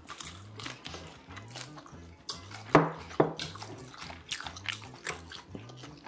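Close-miked wet chewing and smacking mouth sounds of someone eating spicy braised tofu, with many small clicks; two sharper clicks come a little under half a second apart about three seconds in.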